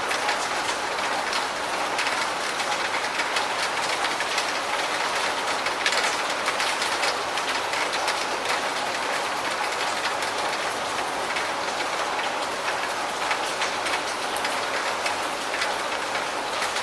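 Steady rain, an even hiss dotted with many small taps of drops hitting a surface.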